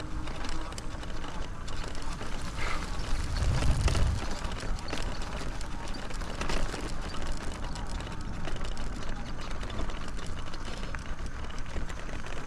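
Folding e-bike on the move along a rough trail: a steady, uneven rattle and rustle of tyres and frame over the ground, with a louder low rumble about three to four seconds in.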